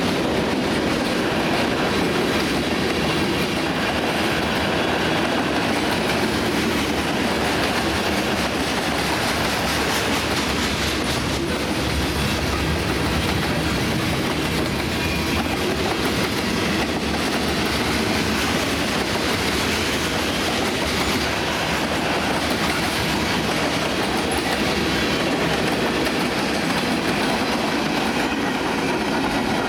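Freight cars of a CSX train rolling past, a steady noise of steel wheels on rail that holds even throughout.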